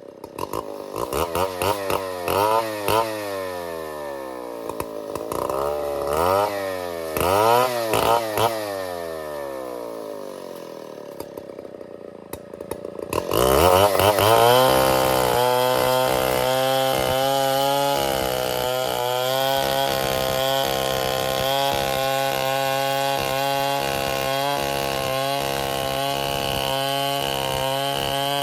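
STIHL 070 two-stroke chainsaw revved up and down in quick blips, then easing back low. About 13 seconds in it is opened up to full throttle and held there at a steady high pitch, running at full revs through to the end.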